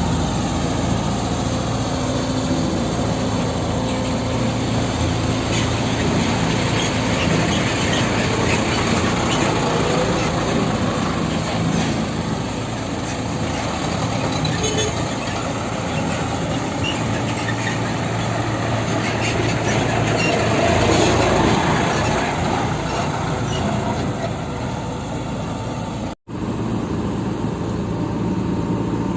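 Heavy diesel engine running steadily, swelling slightly about two-thirds of the way through and cutting out for an instant near the end.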